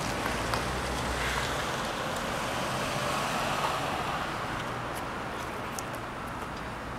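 Road traffic: a vehicle passing, its rushing tyre and engine noise swelling to a peak about halfway through and then fading.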